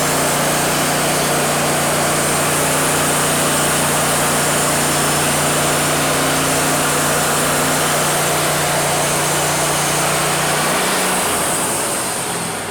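Wood-Mizer LT40 band sawmill running under load, its engine going steadily while the band blade cuts through a cedar log with a loud, dense hiss. About eleven seconds in, the engine note changes and the sound eases off, and the high hiss stops right at the end as the cut finishes.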